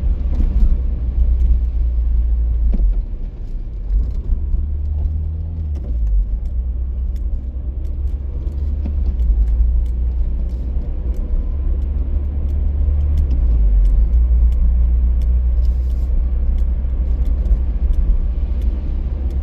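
Strong wind buffeting a moving car, heard as a loud, deep, steady rumble over the road noise that eases briefly a couple of times, with scattered light ticks.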